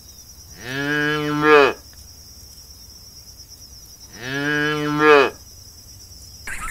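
A calf mooing twice, each call about a second long and swelling louder at its end, a few seconds apart.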